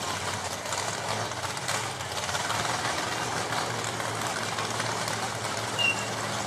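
Car engine idling steadily under a constant wash of outdoor noise, with a brief high chirp near the end.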